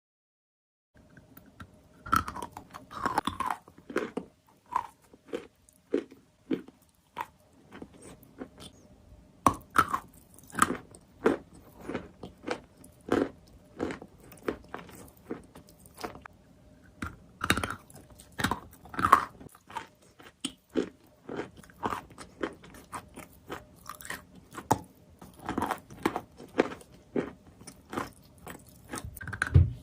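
Close-up bites and chewing of chalk: sharp crunches and snaps as pieces break off, then chewing between the bites.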